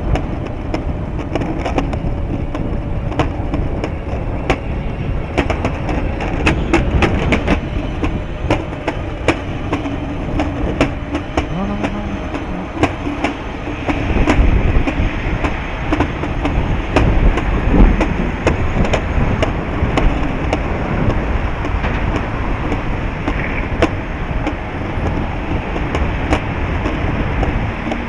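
Strong wind buffeting the microphone as a heavy low rumble, with frequent sharp clicks and rattles through it.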